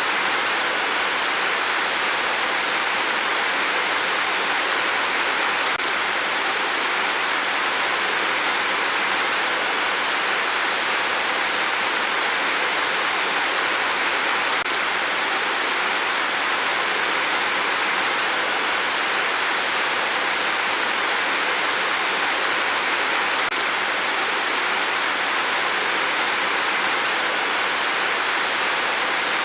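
Steady rain, an even unbroken hiss with no separate drops or gusts standing out.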